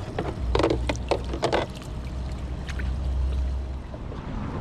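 Several quick knocks and splashy handling sounds on a fishing kayak in the first couple of seconds, over a low steady rumble that fades near the end.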